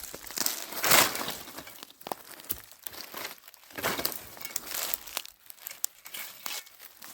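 Irregular crinkling and rustling, like dry material or plastic being handled, loudest about a second in.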